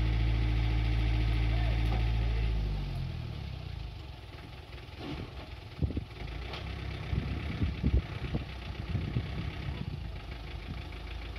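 Diesel engine of a Hino Dutro 130 HD dump truck running at high, steady revs, then dropping away about three seconds in to a lower idle. Irregular knocks and thumps come over the idle.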